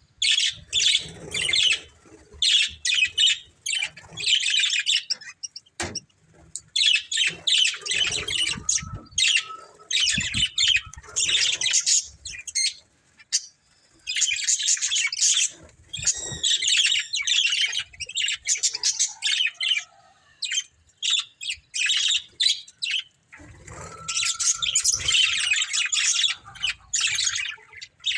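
A pair of budgerigars chirping and chattering in quick runs of a few seconds, with short pauses between them.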